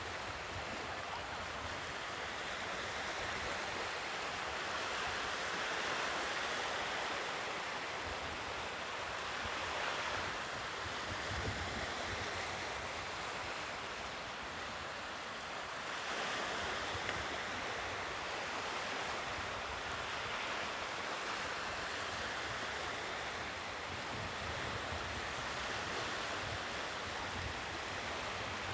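Sea waves breaking and washing ashore, a continuous surf noise that swells and eases every several seconds.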